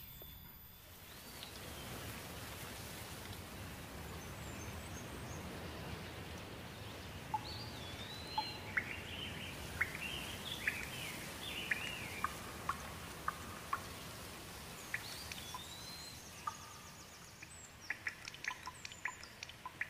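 Small birds chirping and calling in short gliding notes over steady background noise, with a run of quick sharp clicks near the end.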